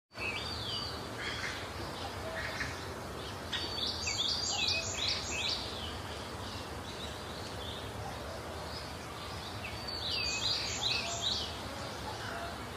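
Outdoor ambience: a steady low background noise with a bird calling in quick runs of about five sharp, falling high notes, once about four seconds in and again around ten seconds, with a few softer calls at the start.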